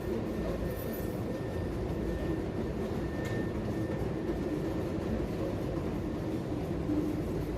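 A train running past with a steady rumble and a hum under it.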